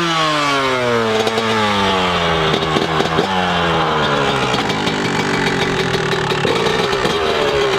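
Small high-revving dirt bike engine. Its pitch falls steadily over the first few seconds, then holds at a steady drone.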